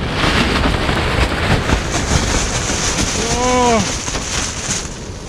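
Strong wind battering the fabric walls of a backpacking shelter, a loud, dense flapping and rumbling noise. About three seconds in a man lets out a short groan.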